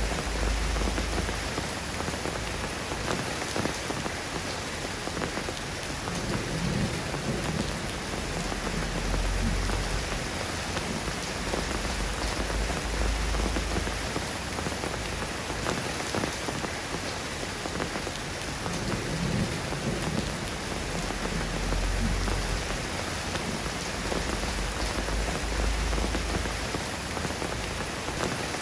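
Soft rain falling steadily, an even hiss of drops on surfaces, with a low rumble that swells and fades several times.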